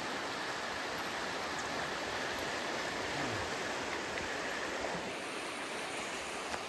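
High, swollen river water rushing steadily over its bed, the full winter flow of the Alsea River.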